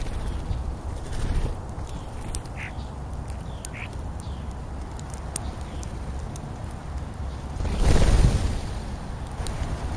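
Birds giving short, harsh calls every second or so, with scattered sharp clicks. About eight seconds in, a loud whoosh swells and fades over about a second.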